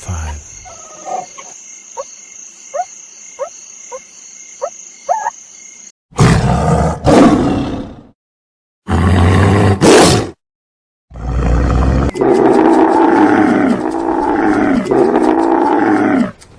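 A string of animal calls from several different clips. First come faint short chirps about every half second. Then there are loud bursts with abrupt silences between them. Near the end comes a run of repeated pitched calls, each about a second long.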